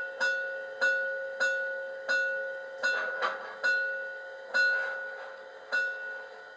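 The sound module of a Piko BR 50 garden-railway steam locomotive model plays steam-exhaust chuffs through its small loudspeaker, with a steady ringing tone under them. The beats spread out from about two a second to more than a second apart as the locomotive slows, then stop near the end.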